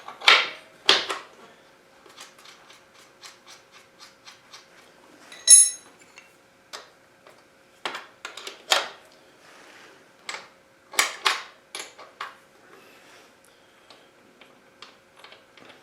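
Metal hand tools working a motorcycle's rear chain adjuster: irregular clicks and clinks of a wrench on the bolts, with one short metallic ring about five and a half seconds in.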